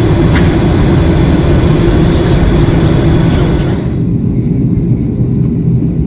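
Steady cabin noise of a Boeing 737-800 in flight: engine and airflow noise, heaviest low down. A little under four seconds in, the upper hiss drops away suddenly, leaving a duller low rumble.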